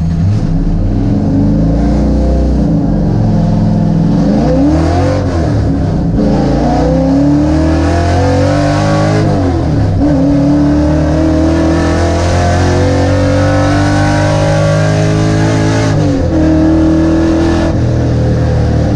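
A Ford XF Falcon race car's 302 Windsor V8 accelerating hard through the gears, heard from inside the car. The revs climb, then drop sharply at gear changes about 6, 10 and 16 seconds in.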